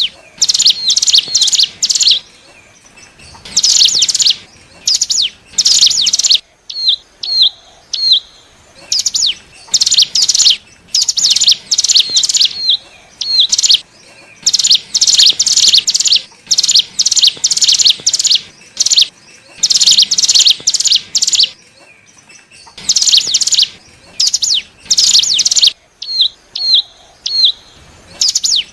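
Ciblek gunung (cigun) singing a loud, fast, scratchy chattering song in repeated short bursts with brief gaps, mixed with a few short hooked whistles. This is a lure call used to draw wild cigun in.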